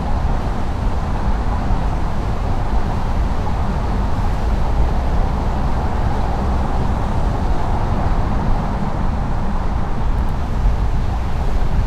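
Steady road and tyre noise with low rumble from a car driving along a highway.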